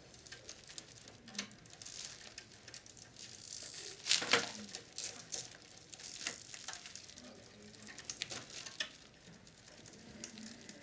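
Small clicks, taps and scrapes of hands working parts and wiring loose inside a vintage Philips radio cassette recorder, with a louder clatter about four seconds in.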